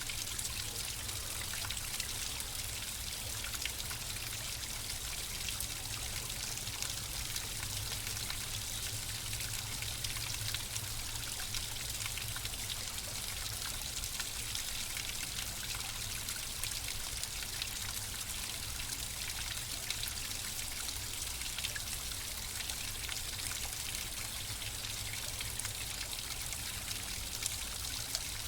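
Flowing water trickling and splashing steadily, with a fine patter of small droplets over a low rumble.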